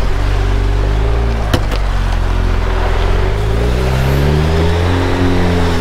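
2021 Jeep Wrangler Rubicon's engine running as it drives, its pitch rising from about two and a half to five seconds in as it speeds up. A single sharp click comes about a second and a half in.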